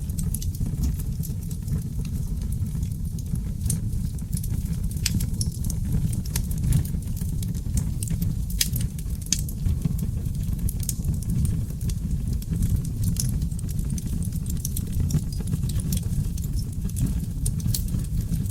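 Oak logs burning in a fireplace, crackling with frequent small sharp pops over a steady low rumble of flames.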